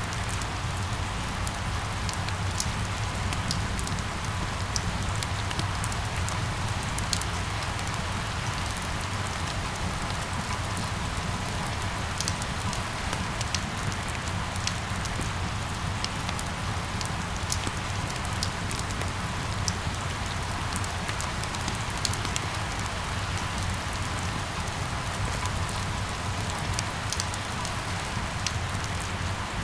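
Steady rain falling, with individual drops ticking sharply here and there over an even patter, and a low steady rumble underneath.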